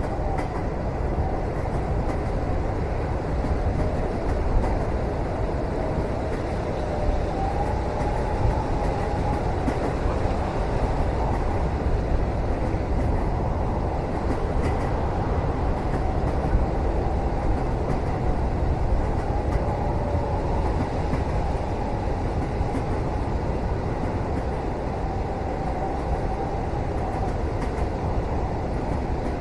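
A moving train heard from inside a passenger cabin: a steady low rumble, with faint wavering tones drifting above it.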